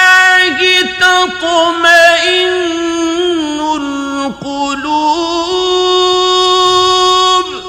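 A male Quran reciter's voice holding a long, ornamented melismatic note in mujawwad chanting style, with trills and slides in pitch. It breaks off near the end and dies away in a long echo.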